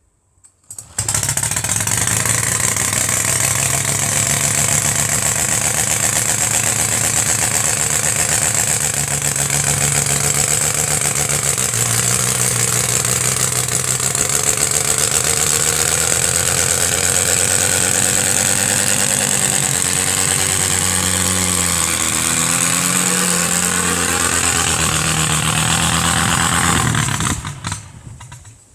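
Homemade radial engine with a new exhaust system, starting about a second in and running with its speed rising and falling, at times slowing almost to idle, then stopping near the end.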